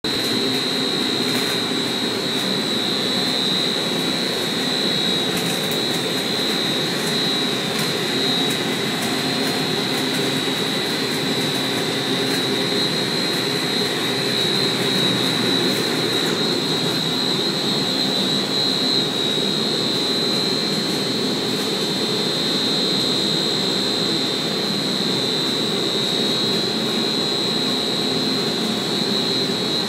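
Boiler-room machinery running steadily: a continuous rushing hum with a strong high-pitched whine over it, and a few faint ticks in the first half.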